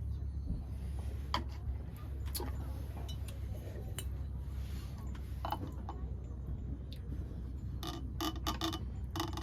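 Scattered light clicks and clinks of small objects being handled, with a quick run of clicks near the end, over a steady low rumble.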